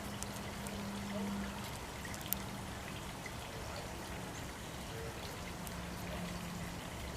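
Steady low background hiss with a faint on-and-off hum and a few small clicks.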